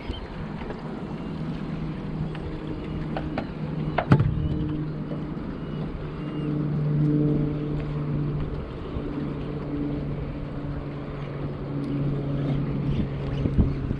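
Boat motor running steadily at a constant pitch, with one sharp knock about four seconds in.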